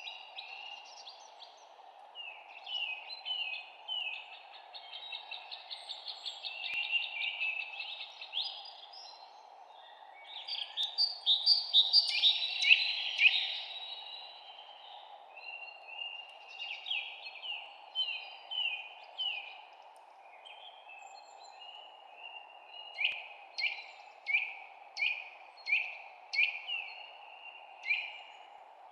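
Several songbirds singing and chirping over a steady low hiss, with a rapid trill, a loud burst of song about midway, and near the end a run of about seven sharp notes evenly spaced.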